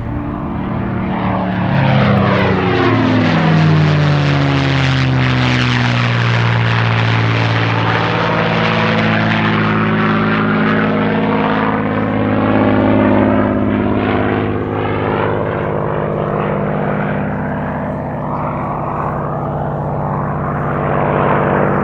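Merlin V12 piston fighter flying past. The engine's drone drops in pitch as the aircraft passes, a few seconds in. It then settles to a steady drone with a sweeping, phasing sound as the plane flies on.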